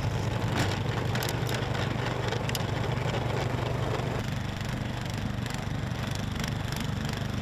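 An engine running steadily, with sharp crunching cracks in the first few seconds, as snow is cleared.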